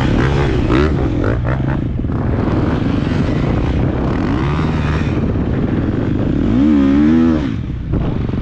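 Single-cylinder four-stroke KTM 250 SX-F motocross bike engine revving up and down under throttle while being ridden, with a strong rev that rises and falls about two-thirds of the way through, followed by a brief drop as the throttle closes.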